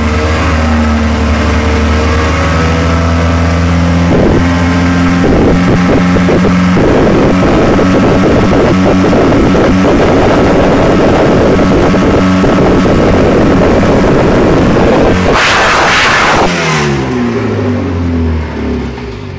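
Turismo Carretera race car engine running: a steady idle, then a rougher, busier stretch with throttle blips. It gives one sharp rev about fifteen seconds in, then the revs fall away and the engine winds down near the end.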